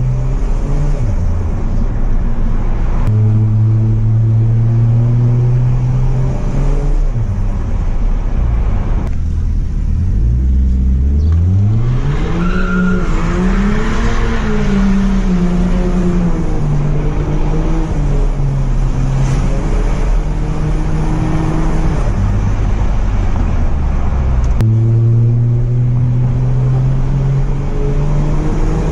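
Toyota JZX100 Mark II's 1JZ-GTE VVTi turbocharged straight-six running at low, steady revs. About ten seconds in, the revs climb steeply, rise and fall for several seconds, and then settle back to a steady low note near the end.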